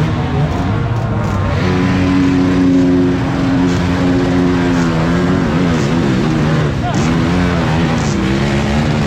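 Motocross dirt bike engines running hard, their pitch holding steady and then rising and falling as the throttle is worked. Several bikes overlap at different pitches.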